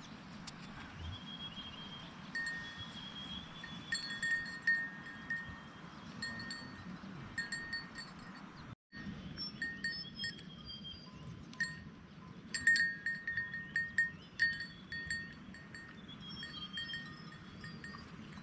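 Metal bells worn by a grazing flock, clinking and ringing irregularly as the animals move. The sound cuts out for a moment about halfway through.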